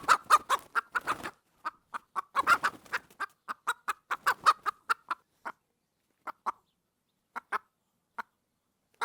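Farm fowl clucking in a rapid run of short calls, thinning out to a few scattered clucks after about five seconds.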